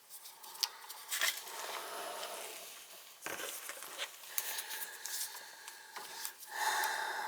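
Hands handling furnace low-voltage wiring at close range: small clicks, snips and scrapes at irregular intervals, with a steady hum that comes and goes.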